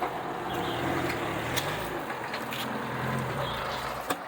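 Off-road vehicle engine running at low revs, its pitch rising and falling, with scattered sharp clicks and knocks. The engine sound cuts off suddenly near the end.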